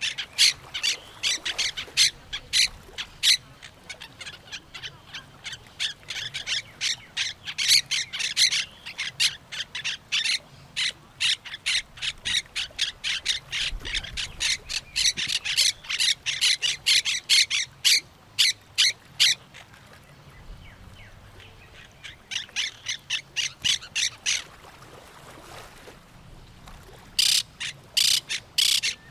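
Parrots and other birds calling in quick, harsh squawks, packed close together for most of the stretch, with a short lull about two-thirds of the way through before the calls pick up again.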